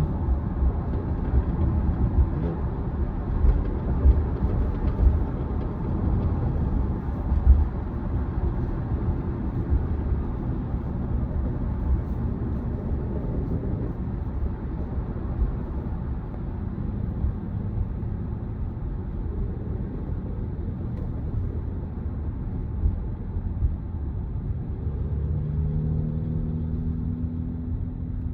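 Road and tyre noise heard inside a moving Tesla Model Y: a steady low rumble, with a few louder bumps in the first several seconds. Near the end a low hum comes in and rises a little in pitch.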